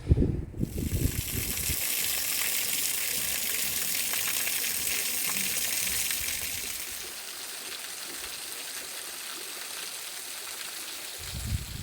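Rushing water: a steady hiss that eases a little from about seven seconds in.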